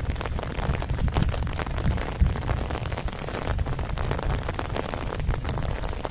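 Heavy rain falling steadily, with a dense patter of close drops striking a surface over a constant low rumble.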